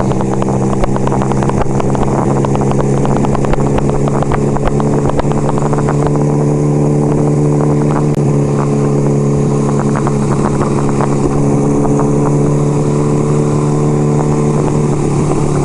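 1975 Kawasaki KZ400 parallel-twin motorcycle engine running at a steady cruise, its pitch holding even.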